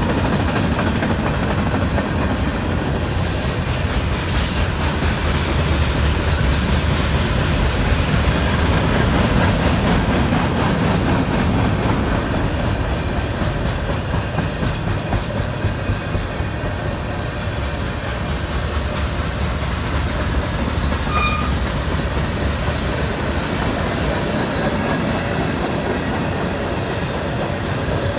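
Mixed freight train rolling past, steel wheels of the freight cars clacking over the rail joints in a steady, continuous run.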